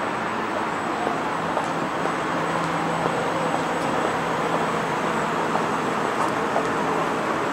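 Electric commuter train standing at the platform, its equipment humming steadily with a low, even tone, over a steady even noise. There are a few faint ticks.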